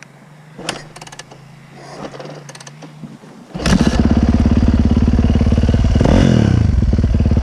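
Dirt bike engine starting about halfway through and then running loudly and steadily, with a brief rise and fall in pitch about two seconds later. Before it catches there are only light clicks and clatter.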